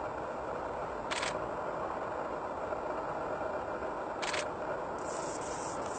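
Steady background noise with two short sharp clicks, about three seconds apart.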